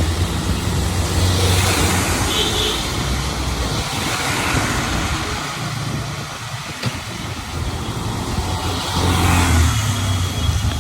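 Street traffic around a moving rickshaw: engines running, with the hiss of vehicles passing on a wet road swelling about two seconds in and again near the end. A brief high tone sounds about two and a half seconds in.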